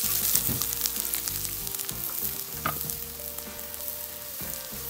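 Diced onion sizzling in a little oil in a frying pan, stirred with a wooden spatula that scrapes and clicks against the pan.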